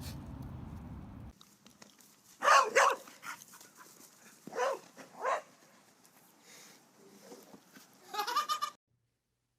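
An animal calling: several short, loud cries, the first pair about two and a half seconds in, two more around five seconds and a longer one near the end. A low steady rumble runs underneath and cuts off suddenly just over a second in.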